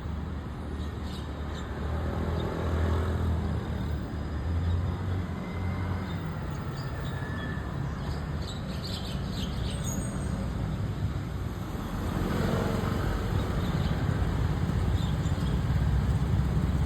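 Steady rumble of road traffic, with a few faint high chirps of white-cheeked starlings over it, mostly about eight to ten seconds in.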